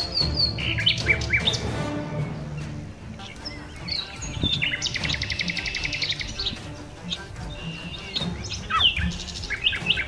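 Several different wild birds chirping and calling: short whistled notes, many sliding downward, and a fast rattling trill about halfway through, over a low steady background hum.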